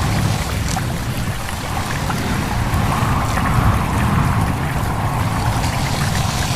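A stream babbling and trickling steadily, with a low rush of wind beneath it.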